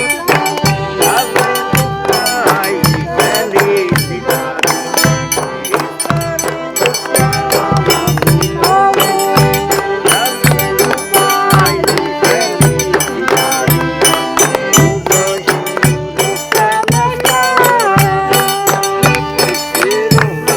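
Forró pé-de-serra played live: an accordion melody over a steady bass-drum beat, with a triangle or shaker ticking on top.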